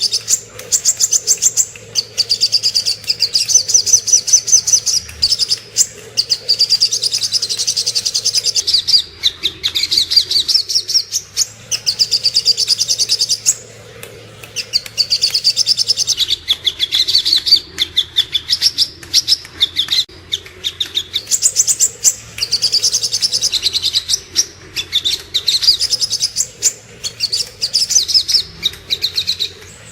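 Little spiderhunter (sogok ontong) singing: long runs of rapid, sharp, high notes in phrases of a second or two, with a short break about fourteen seconds in.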